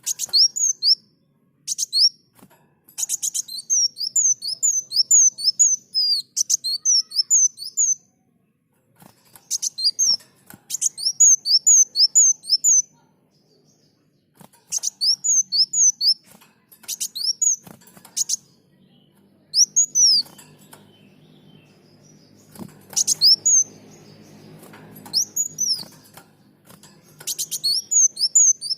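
Kolibri muncang sunbird singing: bursts of rapid, thin, high chirps, each phrase a quick run of sliding notes lasting one to two seconds, broken by short pauses. A faint low hum sits under the song in the second half.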